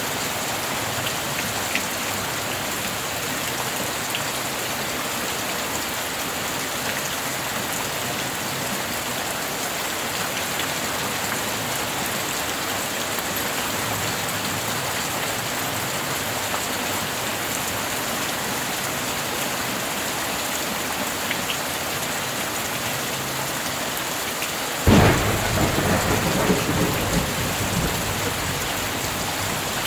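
Steady heavy rain falling, and near the end a sudden close thunderclap that rumbles on for a few seconds.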